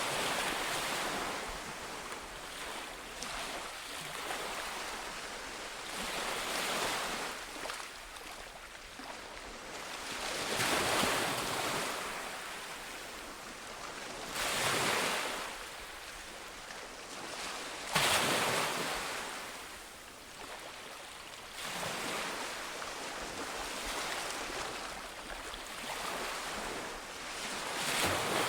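Ocean waves breaking on a shore, a swell of surf every few seconds with a steady hiss of water between. One wave breaks more sharply about two-thirds of the way through.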